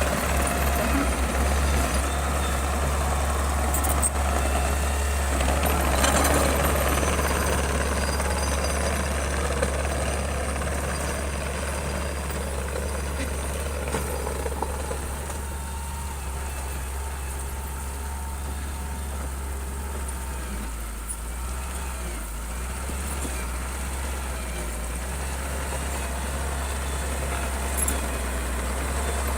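Bulldozer's diesel engine running steadily with a deep low drone, swelling a little about six seconds in and easing somewhat around the middle before rising again.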